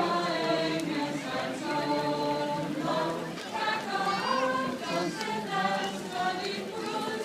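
A group of people singing together, several voices holding long notes that move in steps from note to note.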